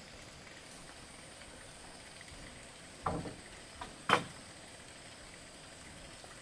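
Two knocks about a second apart, the second sharper and louder, with a faint click between them.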